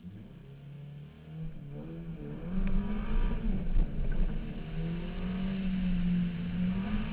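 Slalom race car's engine, low at first, then revving up about a second and a half in as the car pulls away. Its pitch rises, dips and rises again as the driver accelerates, lifts off and accelerates again.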